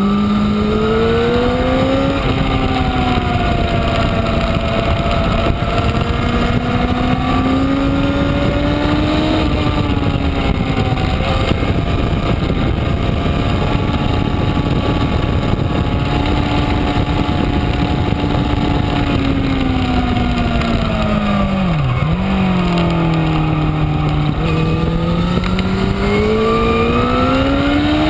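Honda CBR1000RR inline-four engine pulling along at track speed, its pitch climbing slowly, easing off, then rising again, over a steady rushing noise. About three-quarters of the way through the pitch drops sharply for an instant and then picks up again.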